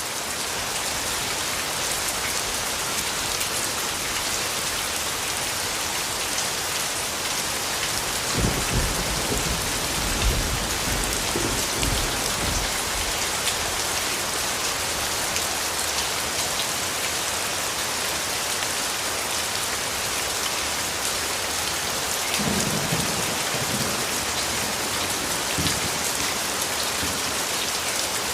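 Steady heavy rain falling, with low rumbles of distant thunder rolling in about eight seconds in and again past the twenty-second mark.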